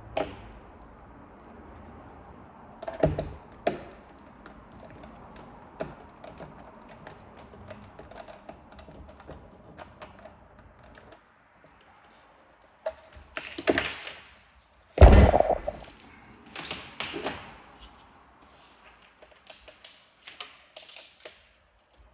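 Hands-on work with hardware: a string of knocks, taps and clicks, with a heavy thunk about fifteen seconds in. A low steady hum underneath stops about eleven seconds in.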